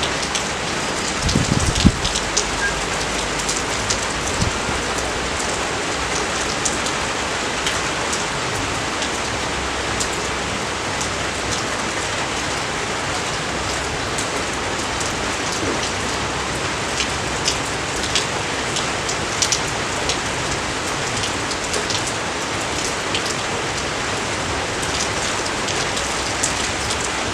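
Steady rain falling, with the close tick of individual drops throughout, and a brief low thump about a second and a half in.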